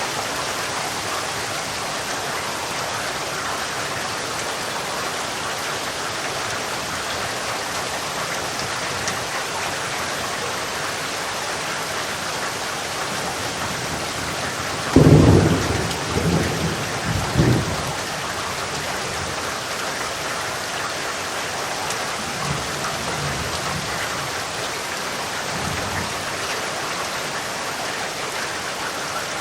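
Steady rain falling. About halfway through a sudden loud thunderclap breaks in and rolls for a few seconds, and fainter low thunder rumbles follow later.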